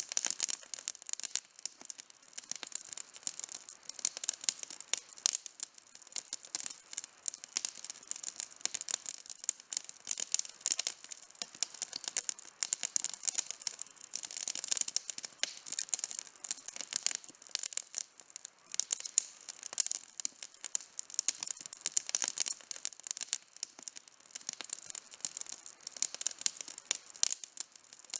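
Campfire burning with constant crackling: rapid, irregular sharp pops and snaps from the burning wood, with almost no low rumble.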